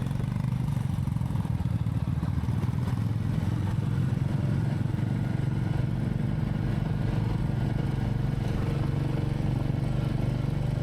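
Royal Enfield Meteor 350's single-cylinder engine running steadily, with an even low pulse and no change in pitch.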